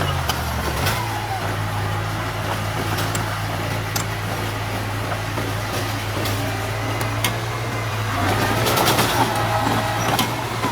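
Diesel engine of heavy earthmoving machinery running steadily with a low drone and scattered clanks, getting louder for a couple of seconds near the end.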